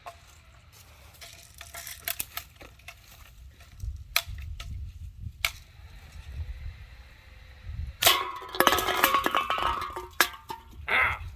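A few scattered sharp clicks, then about eight seconds in a BB gun shot and a burst of clattering and clinking as cans are knocked down, with one last clink near the end.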